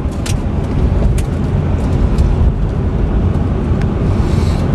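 Chevrolet Corvette Z06's LT4 supercharged 6.2-liter V8 and road noise heard from inside the cabin while driving, a steady low rumble.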